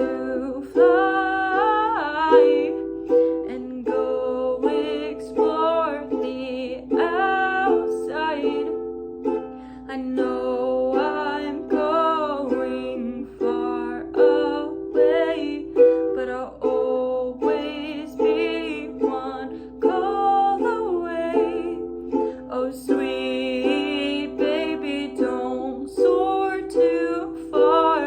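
Ukulele chords played by hand, with a young woman's voice singing a wavering melody over them.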